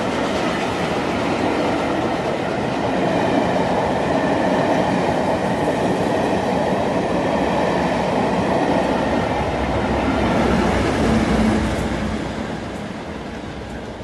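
Train hauled by GWR Castle class steam locomotive 5043 rolling past, a continuous rumble and rattle of wheels on rails. It is loudest about eleven seconds in, then fades as the train moves away.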